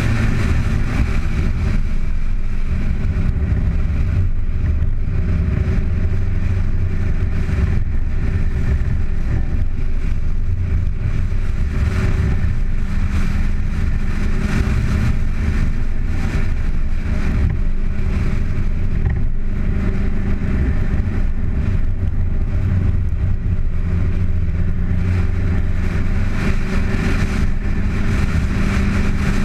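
Car engine running under way, its note rising and falling a little with the throttle, over a steady rush of wind and road noise picked up by a camera mounted outside on the bonnet.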